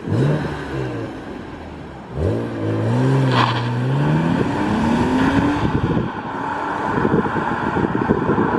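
1998 BMW E36 M3's straight-six engine accelerating: a short rise in revs right at the start, then from about two seconds in the revs climb steadily for several seconds before dropping at a gear change, after which it keeps pulling with a rougher, noisier sound.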